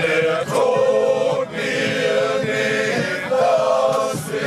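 A group of voices singing a slow song together, holding long notes.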